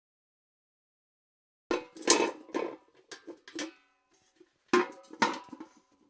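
Steel bucket clanking as it is knocked and handled: after a silent start, a quick run of metallic clanks with a short ring, then a second cluster of clanks near the end.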